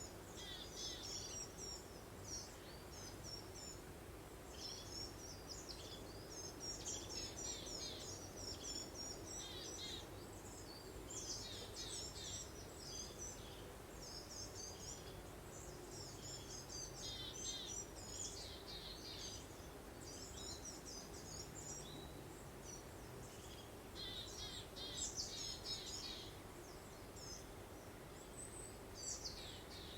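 Songbirds chirping and twittering in quick, busy clusters, over a soft, steady background of breeze.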